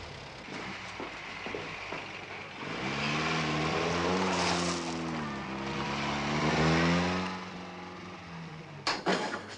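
Car engine pulling away and driving off, its pitch rising and falling twice as it accelerates. A few sharp clicks come near the end.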